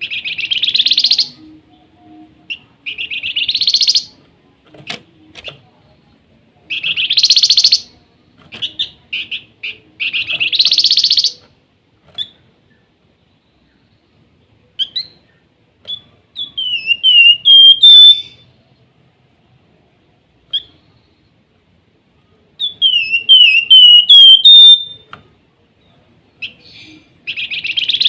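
Javan fulvetta (wergan jawa, the 'flamboyan' of Indonesian bird-keepers) singing. It gives repeated rapid, buzzy trills of about a second each, then, past the middle, two runs of short whistled notes that step upward.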